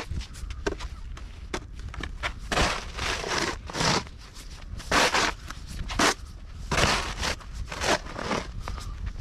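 Footsteps crunching through snow at roughly one step a second, over a steady low rumble.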